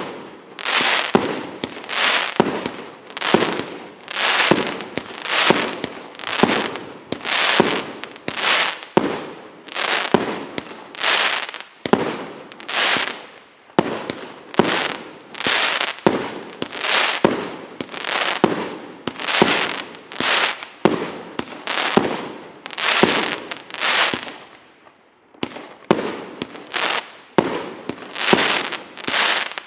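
RS8904 "Two Capitals" firework battery firing shot after shot, about one and a half shots a second. Each shot is a sharp bang followed by a fading crackle. There is a short pause about 25 seconds in, then the shots resume.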